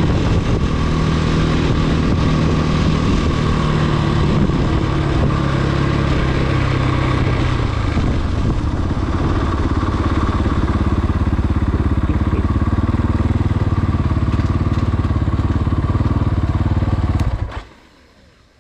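Husqvarna FE501s single-cylinder four-stroke dirt bike engine running. It runs higher for the first several seconds, then settles lower with an even pulsing about eight seconds in, and the sound cuts off near the end.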